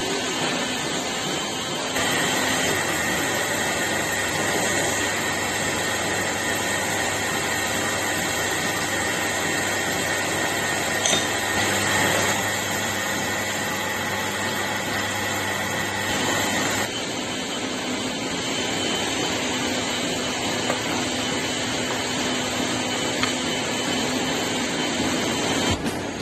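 A power tool running steadily, with a high whine that comes in about two seconds in and stops around seventeen seconds.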